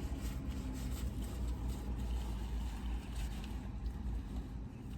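Steady low rumble of an idling car engine, heard from inside the car's cabin.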